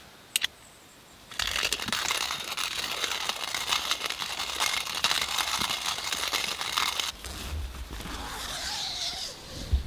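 Hand coffee grinder being cranked, its burrs crunching coffee beans in a steady gritty grind for about six seconds before it stops. A couple of short clicks come just before the grinding starts, and softer rustling follows it.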